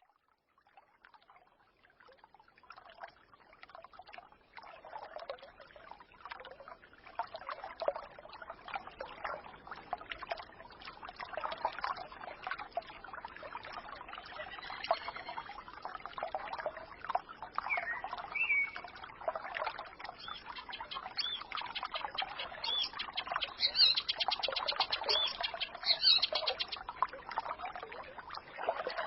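Small forest stream babbling over stones, fading in from silence over the first few seconds. Songbirds chirp above it, with a quick trill and a run of calls near the end.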